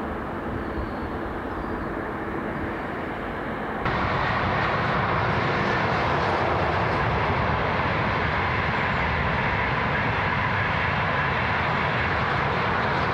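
ICE high-speed train passing at speed: a steady, loud rush of air and wheel-on-rail noise that starts suddenly about four seconds in, after a quieter steady background rumble.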